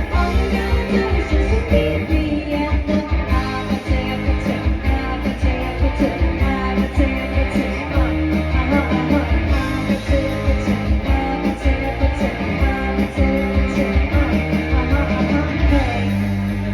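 Live rock band playing a song with a singer, electric guitar, bass and a steady driving drum beat.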